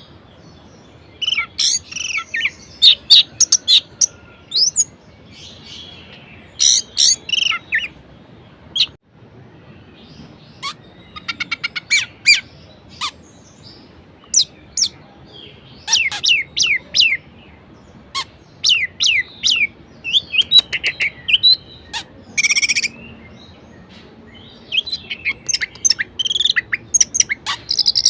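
Orange-headed thrush (anis merah) singing a varied song: short bursts of rapid, sharp high-pitched phrases separated by brief pauses.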